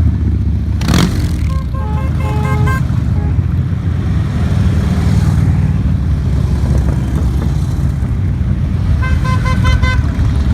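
Motorcycle engines rumbling together in a group ride, with a brief loud burst about a second in. Short series of horn toots sound around two seconds in and again near the end.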